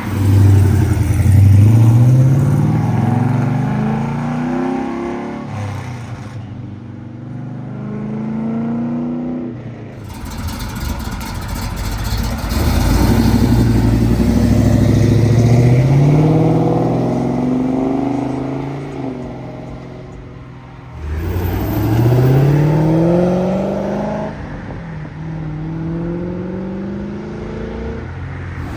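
Several classic and muscle cars accelerating away in turn, each engine's pitch climbing through the gears with drops at the shifts.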